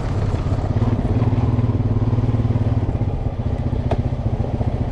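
Off-road vehicle engine running at a steady low speed while riding a rough trail, with a single sharp click about four seconds in.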